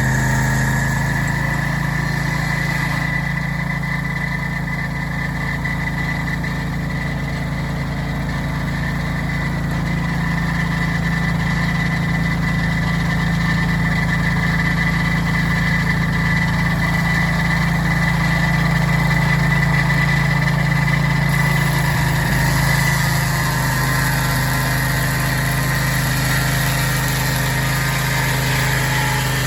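Portable sawmill's engine running steadily under load while cutting a wide board from a big cottonwood log, with a steady high whine over the engine.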